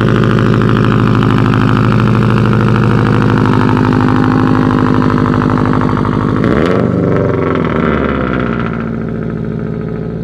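Subaru WRX STI's turbocharged flat-four engine idling with a loud, steady exhaust rumble. The pitch wavers briefly about six and a half seconds in, then the idle settles a little quieter.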